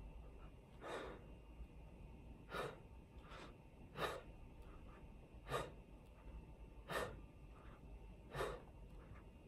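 A man breathing heavily while doing push-ups, with a short breath pushed out on each repetition, about one every one and a half seconds.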